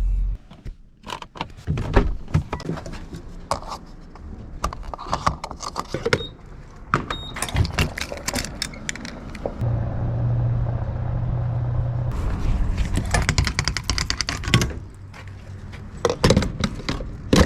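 Keys jangling and a string of clicks, knocks and scrapes from handling things around a car. A steady low hum runs for about two seconds near the middle, followed by a couple of seconds of even hiss.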